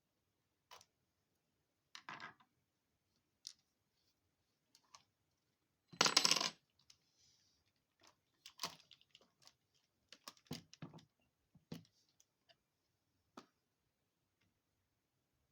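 Small parts and tools clicking and clattering on a work surface while an RC crawler's front axle is taken apart. There is a louder rattle about six seconds in, then a run of light clicks.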